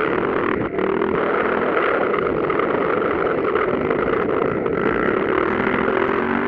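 Motocross bike engines running at high revs during a race, a dense, steady engine noise without a break.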